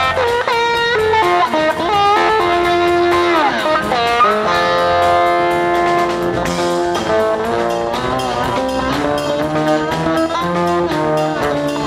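Live band jam: an electric guitar plays a lead line with bent and sliding notes over drums and bass. About three seconds in, one note glides down, then held notes ring out over the beat.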